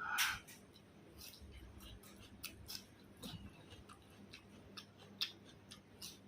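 A person chewing food close to the microphone, with irregular short clicks and smacks from the mouth and a louder one right at the start.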